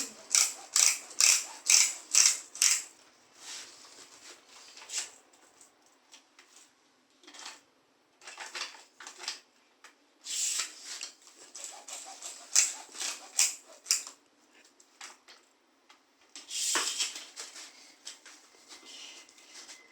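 Toys being handled and knocked about: a quick run of about five clattering knocks at the start, then scattered knocks and rustling with short quiet gaps.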